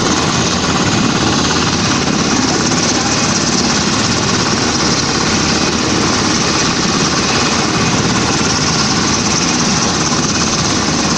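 Army helicopter running, its rotor and turbine making a loud, steady, rapid chopping.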